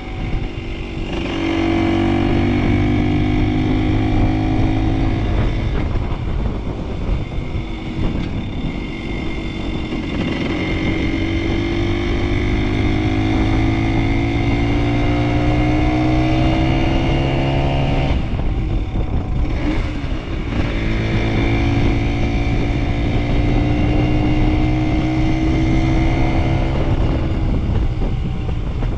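Small vintage motorcycle engine running under way, its note rising slowly through three long pulls with a drop between each.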